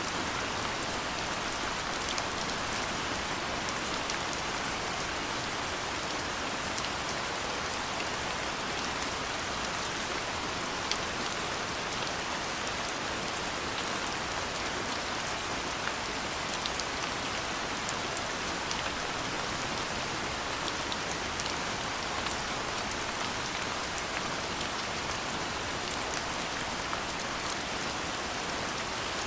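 Steady soft rain falling: an even hiss with many small, sharp drop ticks scattered through it.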